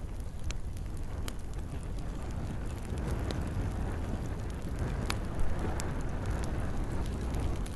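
Campfire crackling, with scattered sharp pops over a steady low rumble, the largest pop about five seconds in. A soft hiss of rain runs underneath.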